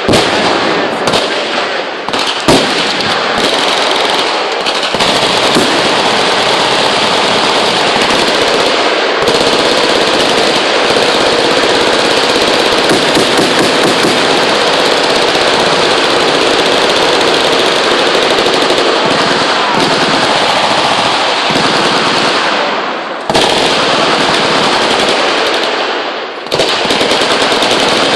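Several machine guns firing full-auto at once. Separate bursts in the first few seconds merge into a dense, unbroken rattle of shots, which dips briefly twice near the end.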